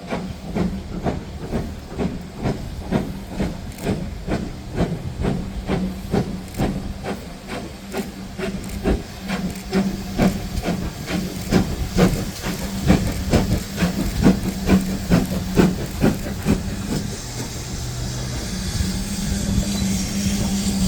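Steam locomotive working hard, its exhaust beats coming evenly at about two a second over a hiss of steam. The beats fade near the end, leaving a steadier hiss.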